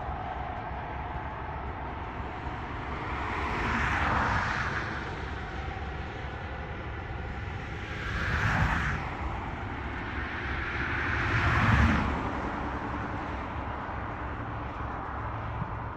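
Steady engine hum with three vehicles passing by, each swelling and fading, about four, eight and twelve seconds in.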